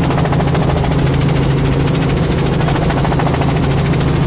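Helicopter in flight: rapid, even rotor-blade chop over a steady engine drone.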